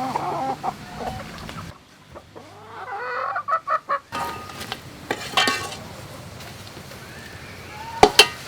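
Domestic chickens clucking in short repeated calls. A single sharp knock sounds near the end.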